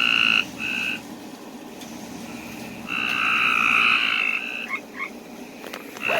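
Cope's gray tree frogs calling with short, fast trills: two brief calls at the start, then a longer trill of about a second and a half about three seconds in.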